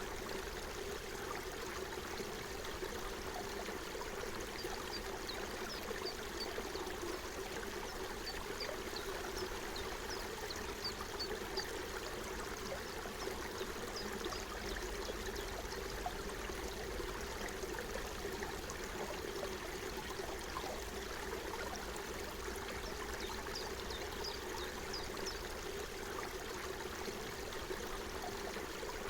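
Forest stream flowing in a steady, even babble of running water.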